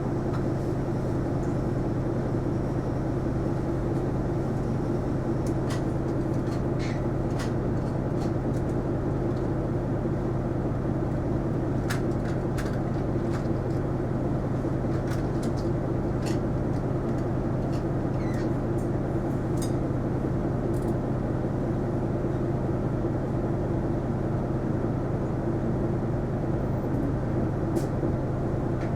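Isuzu Erga non-step city bus heard from inside the cabin while driving: a steady engine and road hum, with short clicks and rattles now and then.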